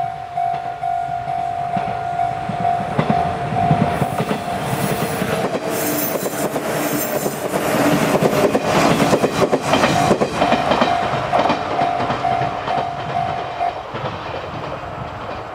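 JR 185-series electric train passing at speed, its wheels clattering over the rail joints, loudest about eight to ten seconds in and fading as it runs off. A steady pulsing ringing tone sounds alongside and stops near the end.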